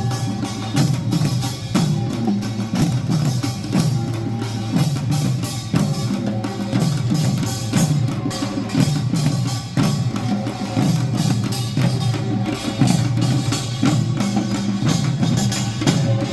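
Korean pungmul percussion band playing a fast, driving rhythm: dense, repeated clanging strikes of small hand gongs over beating drums, without a break.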